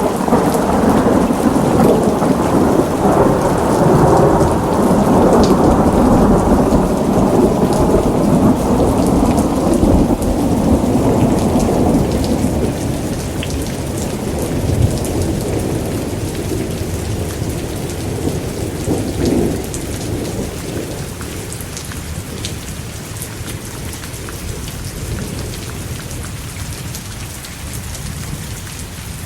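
Thunderstorm: a long roll of thunder that rumbles loud at first and slowly fades away over about twenty seconds, over steady heavy rain.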